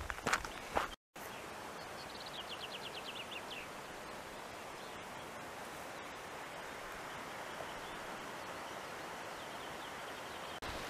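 Steady outdoor hiss with a songbird singing one short phrase of about ten rapid notes that step down in pitch, about two seconds in.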